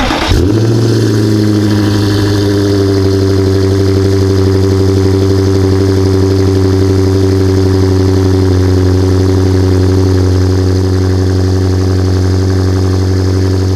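BMW 550i GT's twin-turbo V8 starting up, rising briefly as it catches, then idling steadily at an even pitch.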